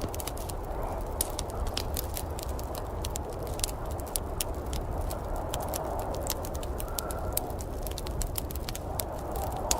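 Wood fire crackling, with frequent irregular sharp pops and snaps over a steady low rumble and hiss.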